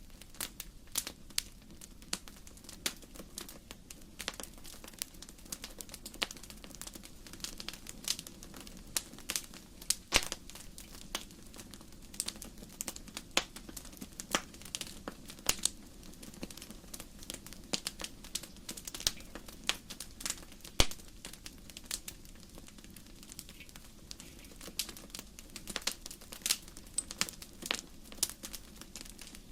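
Wood fire crackling in a fireplace: irregular sharp pops and snaps of burning logs, several a second, over a low steady background. A few pops stand out louder, about ten seconds in and again about twenty-one seconds in.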